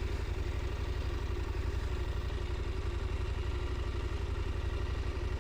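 Motorcycle engine running steadily at low revs, an even low pulsing.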